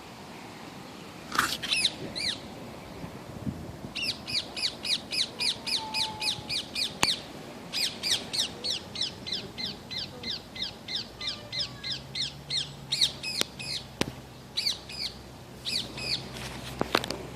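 A bird calling over and over, a long run of quick high chirps at about three a second, with pauses and a few scattered calls. A couple of sharp clicks fall among them.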